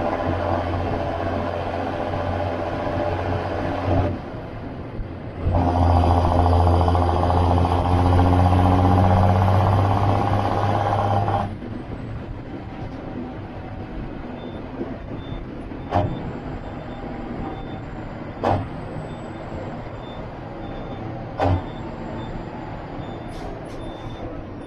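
John Deere 7530 Premium tractor's six-cylinder diesel engine running, dipping about four seconds in, then revving up louder with a high whine for about six seconds before dropping back to a lower speed. Three sharp knocks follow, along with a regular short high beeping.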